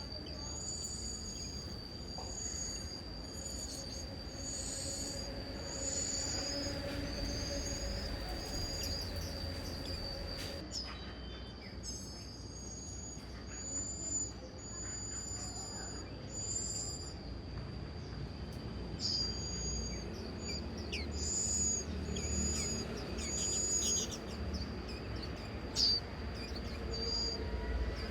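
Small birds chirping in short high notes, repeated about once a second, over a steady high-pitched insect drone.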